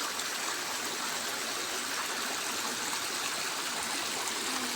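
River water gushing after rain: a steady rushing noise that does not change.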